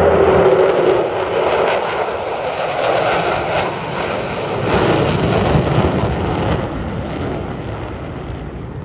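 Loud jet engine roar of a military fighter flying past, dipping in pitch near the start and fading away over the last couple of seconds.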